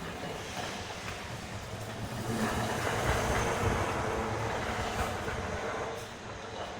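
A train running nearby, a rumbling noise that swells for about three seconds and then eases off.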